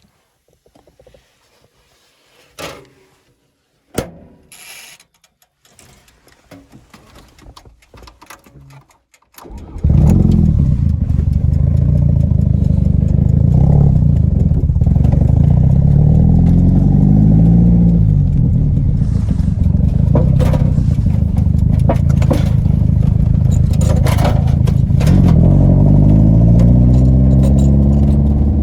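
A few faint clicks and knocks, then about ten seconds in a car engine starts and keeps running, revving up and falling back several times.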